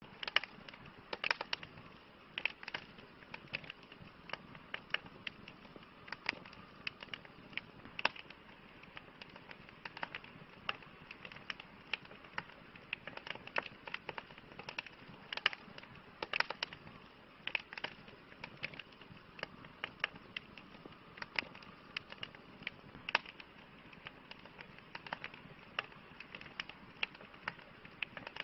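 Campfire crackling: irregular sharp pops and snaps of burning wood, some louder than others, over a steady soft hiss of the flames.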